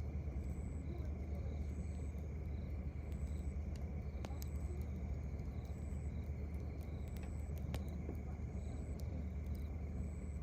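A steady low rumble, with a campfire giving a few sharp crackling pops and a cricket chirping in short high notes about once a second.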